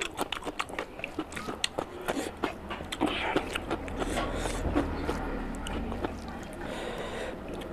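Close-miked wet chewing and mouth smacking of rice and curry, together with a hand squishing and mixing rice and curry gravy on a plate. A quick run of sharp smacks for the first few seconds gives way to denser, steadier squelching.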